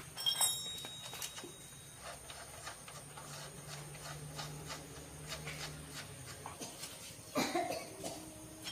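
Scattered light clicks and taps of small hard objects being handled, with a faint steady hum in the middle and a louder clatter about seven and a half seconds in.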